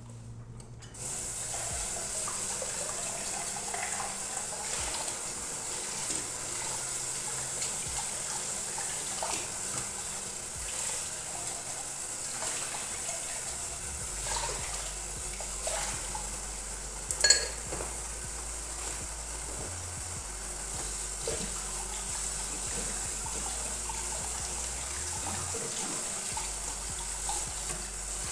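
Kitchen tap running steadily into a sink, turned on about a second in, with small knocks of things in the sink and one sharp ringing clink about two-thirds of the way through.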